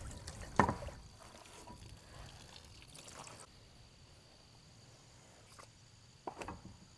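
Faint steady high-pitched insect trilling, with two short sharp knocks, one about half a second in and one near the end.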